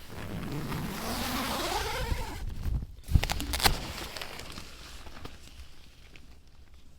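Handling and rustling of frozen gear, with a rising sweep through the first two seconds and a few sharp knocks about three seconds in, then softer rustling.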